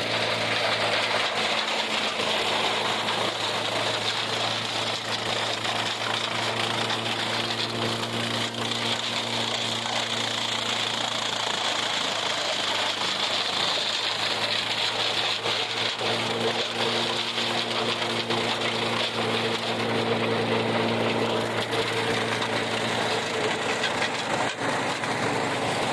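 Farmall 400 tractor engine running steadily under load while it belt-drives a Blizzard silage chopper, the engine's hum mixed with the chopper's dense clattering noise.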